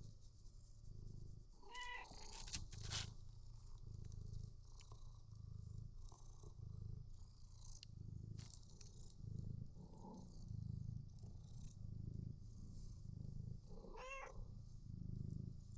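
Domestic cat purring close up, the purr swelling and fading with each breath about once a second, with two short meows, one about two seconds in and one near the end. A couple of sharp clicks sound around the third second.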